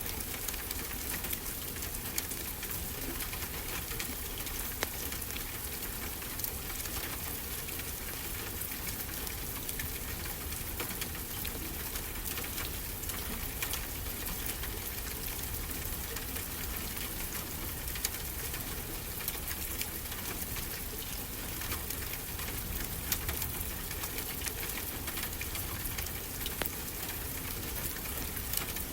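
Wood fire crackling, with frequent small sharp pops, over a steady wash of ocean surf.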